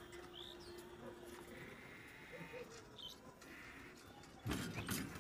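Faint, scattered bird chirps, with a brief rattling clatter of a few sharp knocks about four and a half seconds in.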